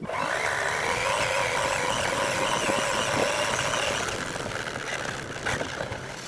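R/C monster truck's motor running under throttle, its pitch rising just after the start, holding steady, then easing off from about four seconds in.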